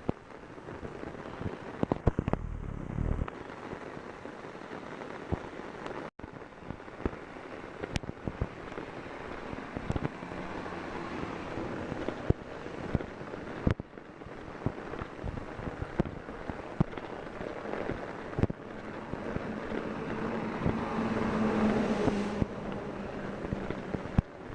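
Torrential rain, with heavy drops hitting an umbrella overhead as a dense crackle of sharp taps. A passing vehicle's hum swells near the end.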